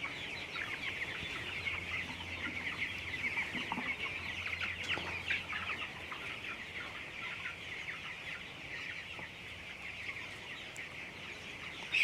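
A large flock of 21-day-old broiler chickens in a shed, many birds calling at once in a dense, continuous chorus of short high peeps and chirps.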